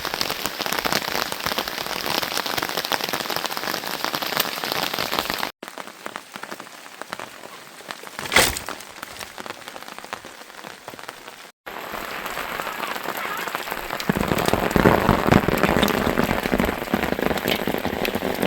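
Rain falling and pattering on surfaces, heavier in the last few seconds, broken twice by brief dropouts where shots change. A single sharp knock stands out about eight seconds in.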